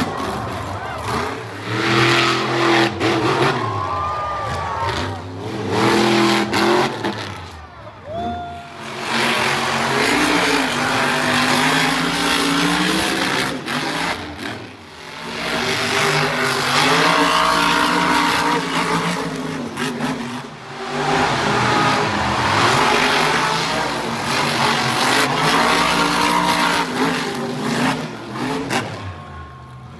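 Monster truck engines revving hard, rising and falling again and again, with the sound dropping off briefly twice, about eight and fifteen seconds in.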